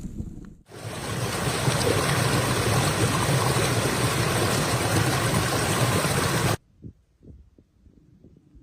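Blizzard wind blowing hard, a steady rush that starts suddenly and cuts off abruptly after about six seconds.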